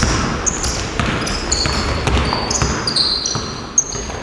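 Basketball game in play: sneakers squeak repeatedly on the court floor while the ball bounces, with voices in the background.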